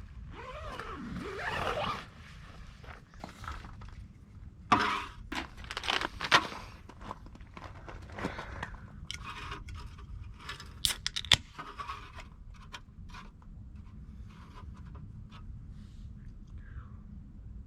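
Irregular scraping, rustling and clicking of things being handled, with a few sharp clicks about five, six and eleven seconds in.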